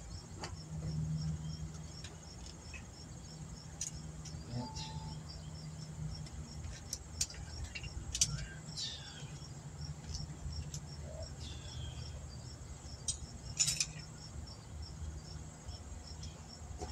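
Faint outdoor background: a steady low hum, a soft high chirp repeating evenly about two to three times a second, and scattered clicks and clinks of tools and parts being picked up.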